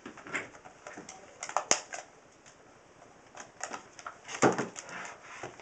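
Plastic shrink wrap being torn and peeled off a boxed router, crinkling and crackling in irregular bursts of clicks, busiest about one and a half seconds in and again in the second half.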